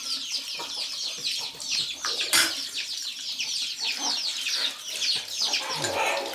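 A flock of chickens clucking and cheeping, many calls overlapping, with one sharp click about two and a half seconds in.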